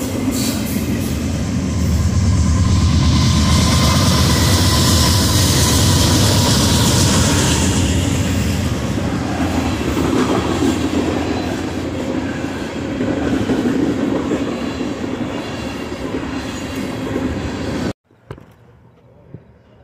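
Double-stack container freight train passing close by at speed: a steady, loud rumble of wheels and cars on the rails. It cuts off suddenly near the end, leaving only quiet platform background.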